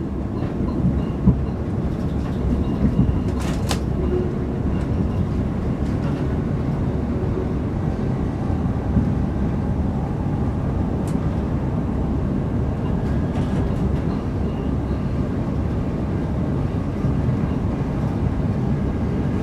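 Interior running noise of a Class 387/1 Electrostar electric multiple unit travelling at speed: a steady low rumble of the wheels on the rails, with a couple of brief sharp clicks.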